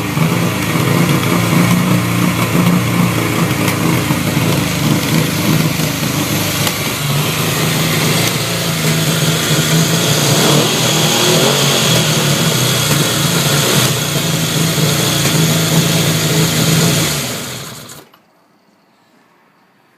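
Yamaha XS750 Special's air-cooled three-cylinder engine running steadily. Near the end it is switched off and dies away within about a second.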